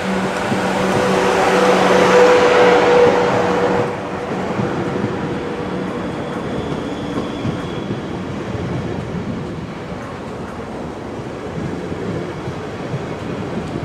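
A train passing close by: a loud swell with a steady hum that peaks about two to three seconds in and falls away suddenly, then a steady rumble of rolling stock.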